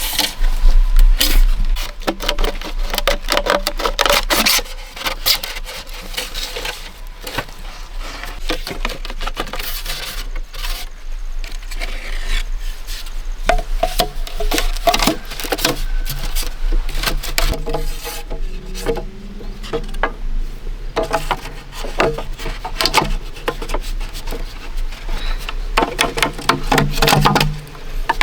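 Bamboo knocking and scraping as pieces are worked by hand and pushed through holes in bamboo poles, a busy run of sharp knocks mixed with rubbing.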